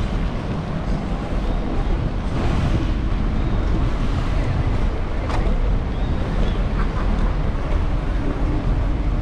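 Wind buffeting the microphone of a moving bicycle rider's action camera: a steady, loud rumbling rush.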